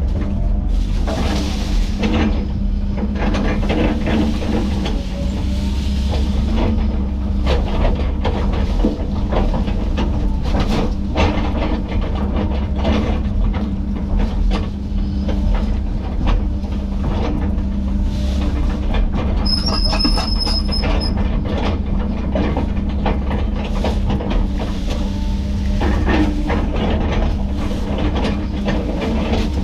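Heavy diesel land-clearing machine running steadily under load, with frequent cracks and knocks throughout and a brief high squeal about twenty seconds in.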